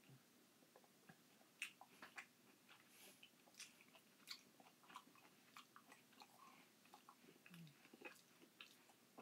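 Faint close-up chewing and mouth smacking of soft crushed pineapple, a string of short irregular clicks, with the spoon working in an open tin can.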